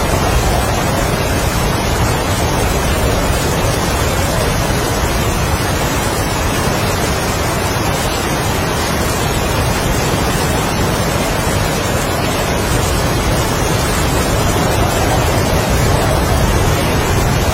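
Heavy rain and strong wind: a dense, steady rushing hiss that swells slightly near the end.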